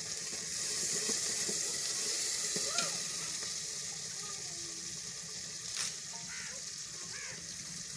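Food sizzling in a cooking pot on a wood-fired clay stove, a steady hiss that eases a little after about three seconds. A couple of light metal clinks, one near the middle, and small birds chirping.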